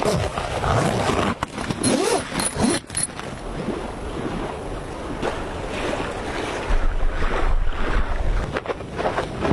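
Steady rushing noise of flowing river water, with wind buffeting the microphone in low gusts late on.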